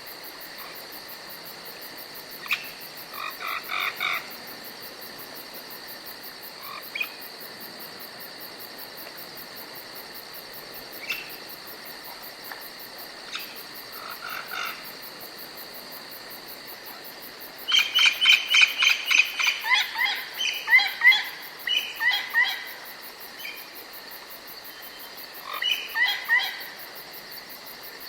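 Forest ambience: a steady high-pitched insect trill, with short bursts of rapid chirping calls from a small animal; the loudest series comes about two-thirds of the way through and another near the end.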